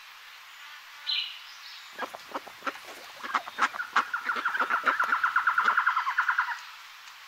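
Eurasian magpie chattering: a short high call, then harsh clicking notes that speed up into a rapid, even rattle of about ten notes a second before stopping abruptly.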